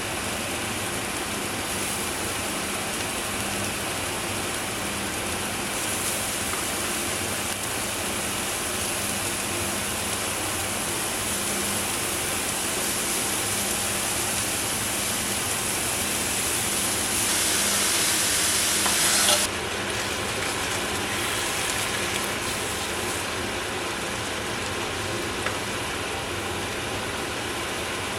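Food sizzling in a frying pan: a steady hiss that swells about two-thirds of the way through, then drops suddenly with a click.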